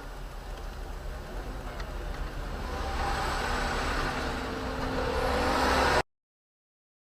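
Car engine and road noise growing louder as the vehicle speeds up, then cutting off abruptly about six seconds in.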